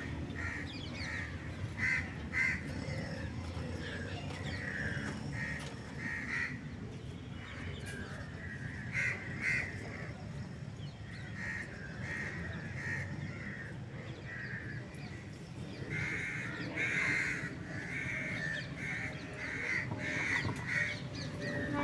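Birds calling repeatedly, crow-like caws coming singly and in short clusters, over a low steady background rumble.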